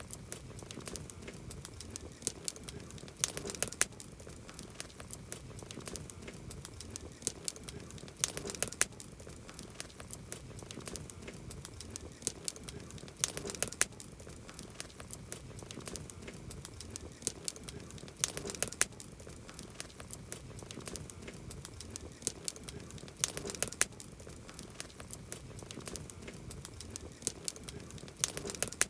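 Campfire crackling: a steady run of sharp pops and snaps, with a denser flurry of crackles about every five seconds.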